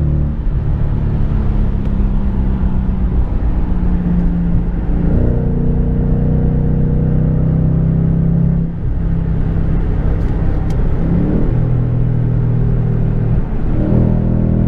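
2015 Ford Mustang GT's V8 running loud through an MBRP race cat-back exhaust at highway speed, a steady drone whose pitch shifts a few times, with a brief dip about nine seconds in.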